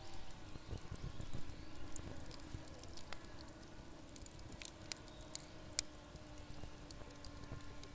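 Wood campfire burning, with scattered sharp crackles and pops and a low flame rumble that eases after the first couple of seconds. A faint steady tone runs underneath, slowly falling in pitch.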